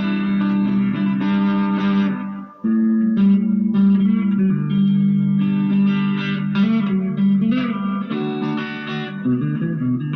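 Electric guitar played through a Marshall MG15GFX 15-watt combo practice amp with its delay effect switched on: sustained notes and chords, with a brief break about two and a half seconds in.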